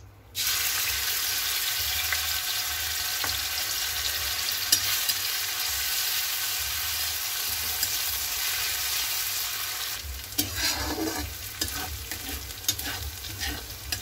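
Chopped ginger and garlic dropped into hot oil in a kadhai, sizzling that starts abruptly and holds steady. From about ten seconds in a metal spatula stirs and scrapes against the pan, adding short clicks to the sizzle.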